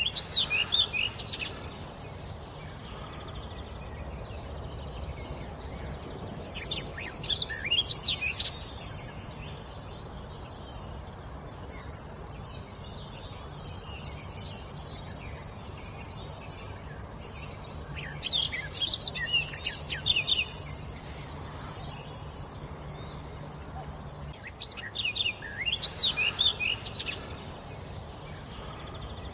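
A songbird singing four short phrases of quick, high, sliding notes, several seconds apart, over a steady low background noise.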